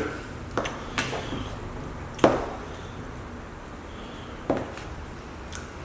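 Eating sounds: four short, sharp clicks over quiet background, the loudest a little past two seconds in.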